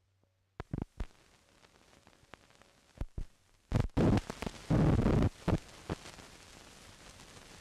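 Hiss, clicks and pops of an old optical film soundtrack, with a cluster of loud, irregular crackling bursts about four to five seconds in.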